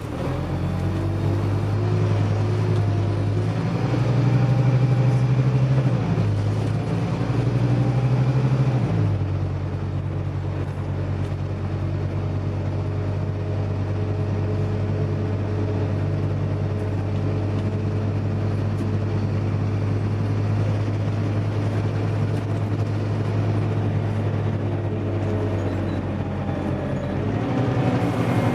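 Scania OmniDekka double-decker bus's diesel engine running under way: it pulls louder for the first several seconds, drops lower about nine seconds in, then runs at a steady pitch.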